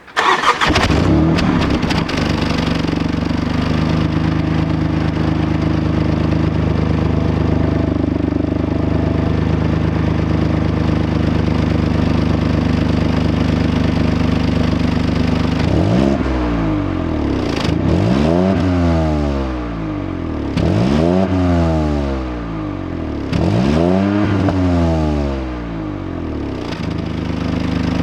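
BMW 118i's 1.5-litre turbocharged three-cylinder engine started from cold, flaring as it catches and then settling to a steady idle, heard at the exhaust. After about sixteen seconds it is revved three times, each blip rising in pitch and falling back to idle.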